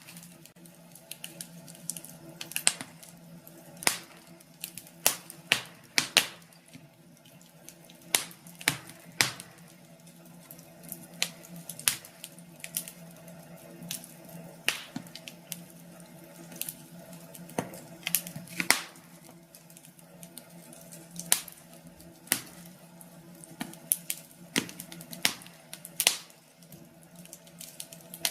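Wood fire crackling in a fireplace: irregular sharp pops and snaps, some louder than others, over a low steady hum.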